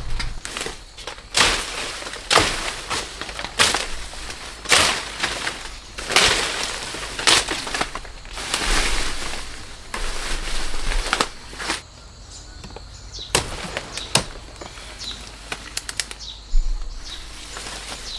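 Leaves and plant stalks rustling and crackling as they are handled, in repeated crisp swishes about once a second, then quieter with a few sharp clicks near the end.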